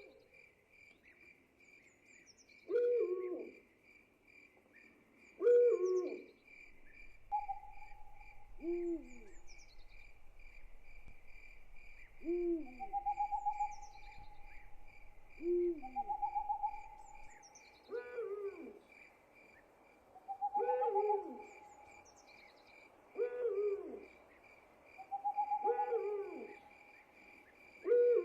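Night ambience: an owl hooting over and over, a short falling hoot about every two to three seconds, over a steady pulsing cricket chorus. A longer, level call joins in at times from about a quarter of the way through.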